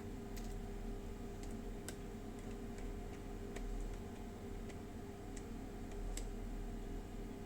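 Light, irregular clicks and ticks of small parts being handled on an airsoft gun's motor and grip cap, over a steady low hum.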